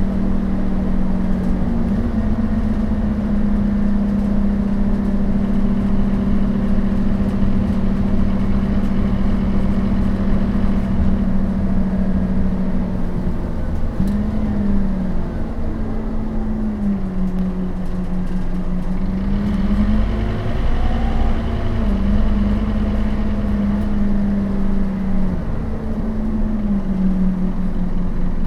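Scania DC9 five-cylinder turbodiesel of a Scania K270UB bus running steadily under way, with the ZF Ecomat automatic gearbox. The engine note steps and dips in pitch several times, falling lowest near the middle and then climbing back.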